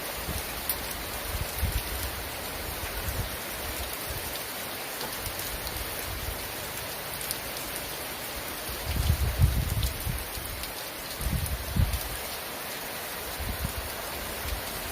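Heavy rain falling steadily, an even hiss of rain, with low rumbles about nine seconds in and again a couple of seconds later.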